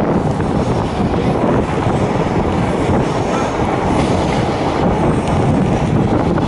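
DEMU (diesel-electric multiple unit) train running along the track, with a steady, loud rumble of wheels on rail.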